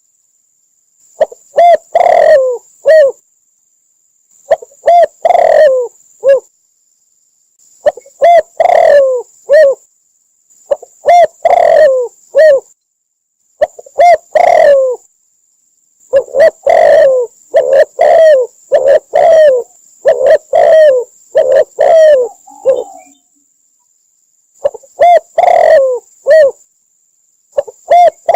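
Spotted dove cooing: short phrases of three or four low, falling coos, repeated every two to three seconds with dead silence between them, about eight phrases in all. It is a recording looped as a lure call for trapping doves.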